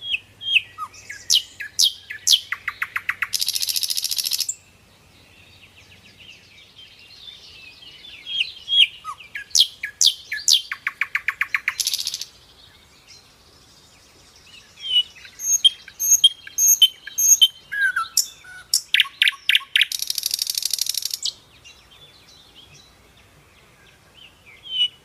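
Birds singing: quick sweeping chirps, then a rapid trill and a harsh buzzing note. The sequence comes three times, with quieter gaps between.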